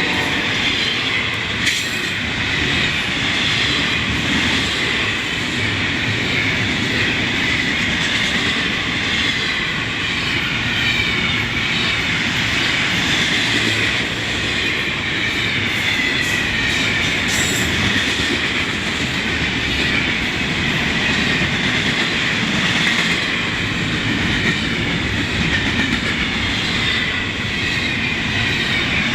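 Freight train rolling past: continuous noise of the cars' wheels on the rails, with a wavering high-pitched wheel squeal over it.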